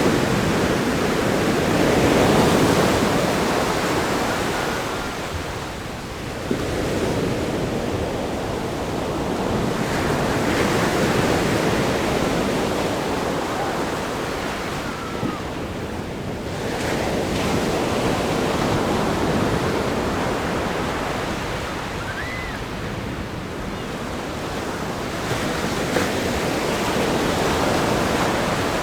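Ocean surf breaking on a rock groin and washing up a sandy beach. It is a continuous rushing wash that swells and eases in several surges.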